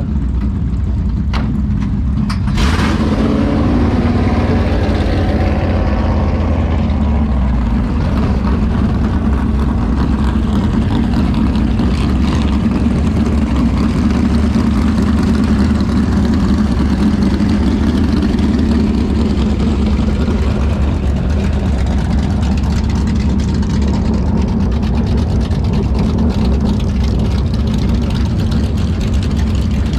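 Drag-race car engines running loudly and steadily, with a deep rumble, after a sudden rise about two and a half seconds in.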